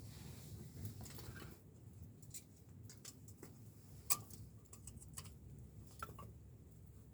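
Wood fire crackling, with scattered sharp pops and clicks at irregular intervals, one louder pop about four seconds in, and a brief hiss near the start.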